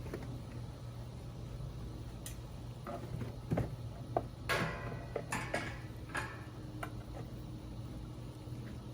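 A few light knocks and clicks and a brief scrape from objects being handled, bunched around the middle, over a steady low hum.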